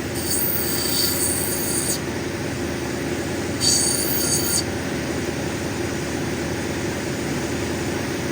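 Cabbing machine running steadily while an opal is ground on its 220-grit diamond wheel, with two spells of high-pitched squealing from the stone against the wheel, the first near the start and lasting about two seconds, the second about three and a half seconds in and lasting about a second.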